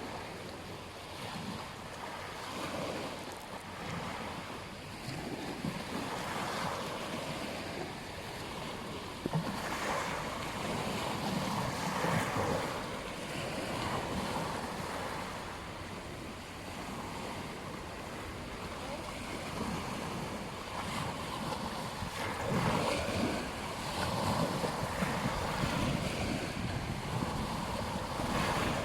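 Ocean waves breaking and washing on a beach, swelling and falling every few seconds, with wind buffeting the microphone.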